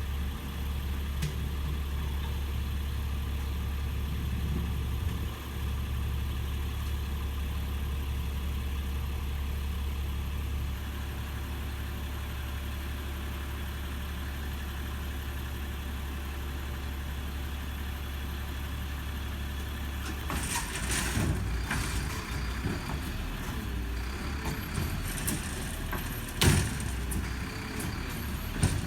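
Recycling truck's engine idling steadily. About twenty seconds in, the sound turns rougher and busier with clattering, and a single loud bang comes near the end.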